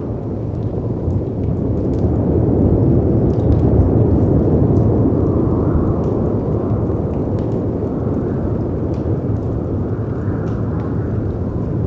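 Steady low rush of howling wind and crashing sea waves that swells in the middle, with faint, scattered crackles and pops from a fireplace fire.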